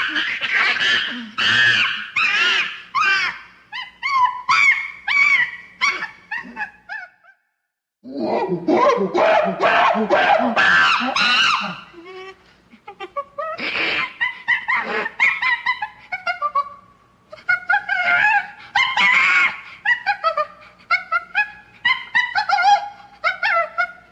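Rapid, high-pitched monkey-like whoops and screeches in bursts, with a full break of about a second some seven seconds in.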